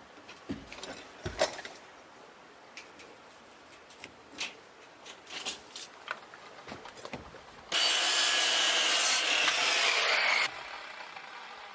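Scattered knocks and clicks of lumber and tools being handled, then about three seconds of a power saw cutting through wood, starting and stopping abruptly.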